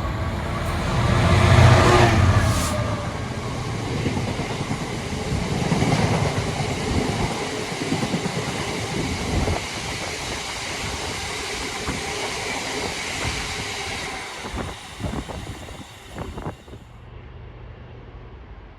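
Freight train passing: the locomotive's engine is loudest about two seconds in, then a long rake of wagons rolls by with wheels clattering over the rail joints. The sound fades away near the end.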